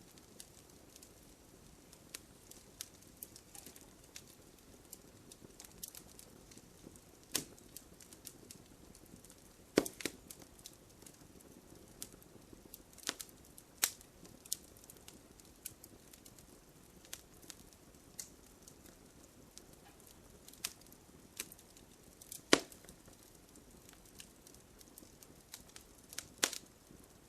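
Wood fire burning with a low hiss and irregular crackles and pops, two louder snaps about ten seconds in and again near the twenty-two-second mark.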